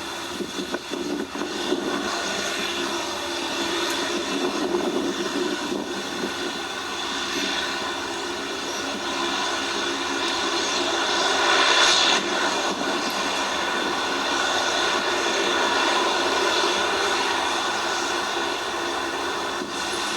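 Jet airliner's engines at takeoff power: a continuous rush of noise with several steady whining tones through it, swelling to its loudest about twelve seconds in.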